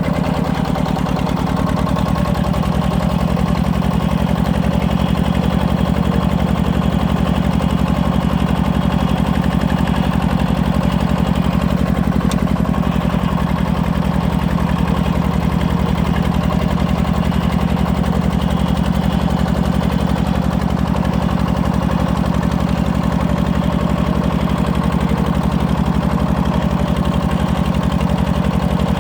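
Walking tractor's single-cylinder diesel engine running steadily, powering a tractor-built hydraulic log splitter; its note shifts slightly about a second and a half in.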